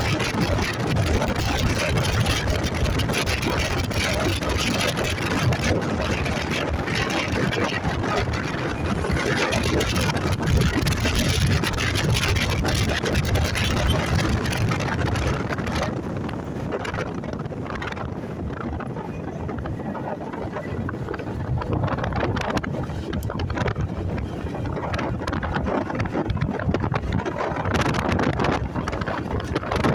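Motorcycle engine running while riding, with wind rushing over the microphone. The wind hiss drops for a while past the middle, as if the bike slows, then builds again near the end.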